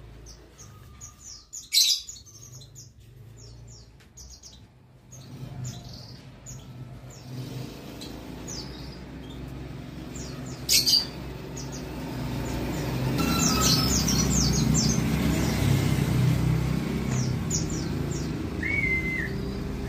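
White-eyes (pleci) giving repeated short, high chirps. Road traffic rumbles underneath and grows louder in the second half, and two sharp clicks come about 2 s and 11 s in.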